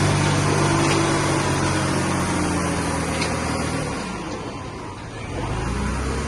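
Diesel engine of heavy earthmoving equipment running steadily with a low hum, then fading away about four seconds in; an engine sound swells up again near the end.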